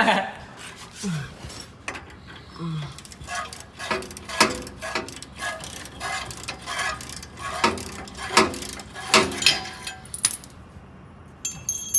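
Irregular metallic clinks and clanks of hand tools and exhaust parts being handled while unbolting the catalytic converters from under the car.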